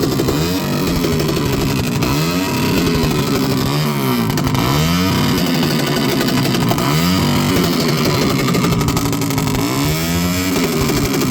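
Motorcycle engine revved over and over, its pitch climbing and dropping back about every one and a half to two seconds.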